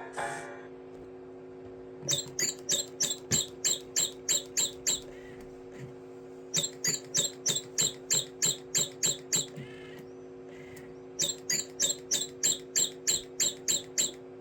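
Toy singing bird chirping electronically: three runs of about a dozen quick falling chirps, roughly four a second, with short gaps between the runs, over a steady low hum.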